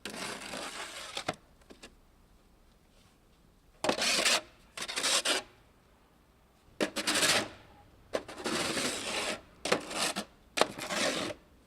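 A series of rough scraping sounds, each lasting about half a second to a second, with short pauses between them; about seven in all.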